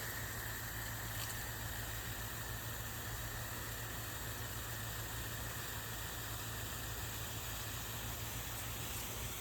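Orbit lawn sprinkler spraying water: a steady hiss, with a low steady hum underneath.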